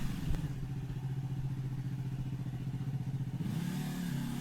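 Motorcycle engine idling steadily, its pitch lifting briefly near the end.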